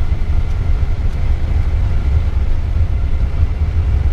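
Boeing 787 Dreamliner on its takeoff roll with thrust set, heard from the cockpit: a loud, steady low rumble of the engines and of the wheels running down the runway.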